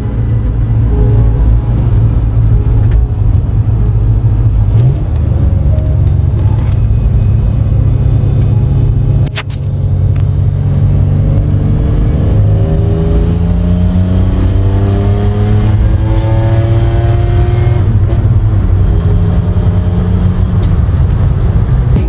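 Vehicle engine running under load and accelerating, loud and steady, with a short break about nine seconds in, after which its pitch climbs steadily for several seconds.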